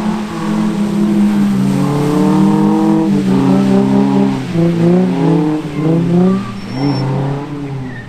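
A car engine revving hard, its pitch rising and falling repeatedly as the throttle is worked, typical of a car being drifted.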